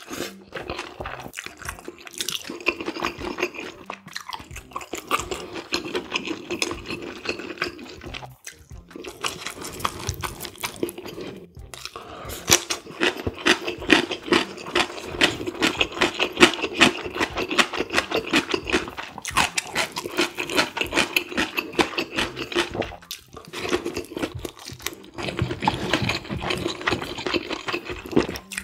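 Close-miked wet chewing and slurping of saucy noodles and squid, a dense run of sticky mouth clicks that breaks off briefly a few times.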